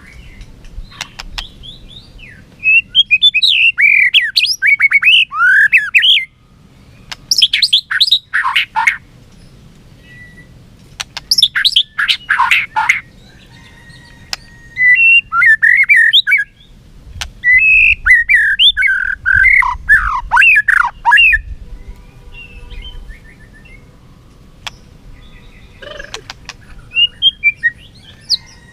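White-rumped shama singing its challenge song: loud bursts of rapid, swooping whistled notes mixed with harsh rasping calls, with pauses of a few seconds between phrases.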